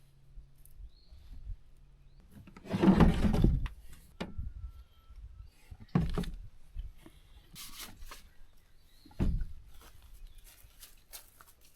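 Handling noise: a loud scraping rustle about three seconds in, then three separate knocks, as of objects being moved and set down.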